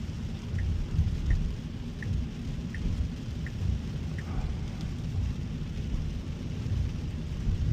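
Tesla Cybertruck driving on a wet road in the rain: a steady low rumble of tyre and rain noise. In the first half there are six soft ticks, evenly spaced about 0.7 s apart.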